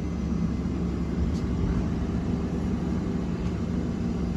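Steady low mechanical hum of a train standing in the station, with a few held low tones and no change in level.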